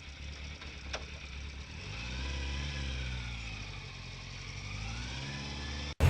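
Motorcycle engine running on the move, its pitch falling and then rising again as the revs change. It cuts off abruptly near the end.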